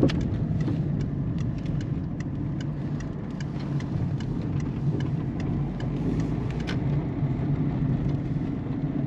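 Peugeot 207 1.4 turbo diesel car being driven, its engine and road noise a steady low hum. A run of light, sharp ticks and knocks comes two to three times a second over most of the stretch, then fades out about seven seconds in.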